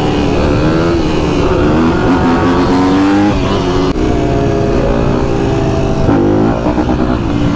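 Vehicle engines running and revving in traffic, their pitch climbing through the middle, dropping about four seconds in, then climbing again near the end.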